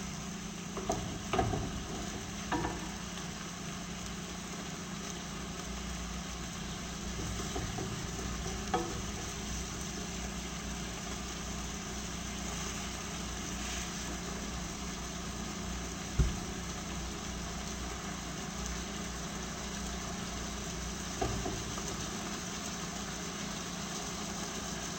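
Steady low hum and hiss with a few short, sharp knocks and clinks of kitchen work; the loudest knock comes about 16 seconds in.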